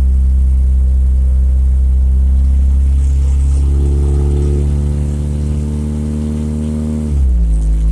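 Car engine running through a loud exhaust that needs replacing, a steady low drone with a held pitch. About seven seconds in the engine speed drops and the drone gets louder.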